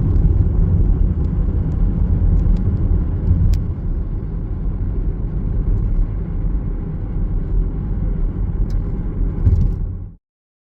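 Steady low rumbling noise, with a few faint clicks, that cuts off suddenly about ten seconds in.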